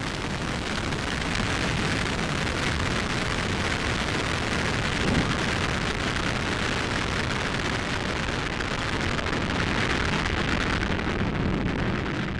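The RD-180 main engine of an Atlas V rocket running at full thrust just after liftoff: a steady, rushing rumble that swells slightly about a second in.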